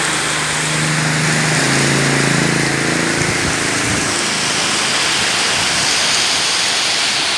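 Heavy rain pouring down steadily, a dense hiss. A low droning tone sounds over it for the first three seconds, and a few soft knocks come near the middle.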